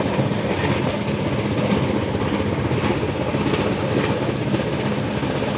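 Passenger train running along the line: the steady rumble and rush of the moving coach, with a faint steady hum under it.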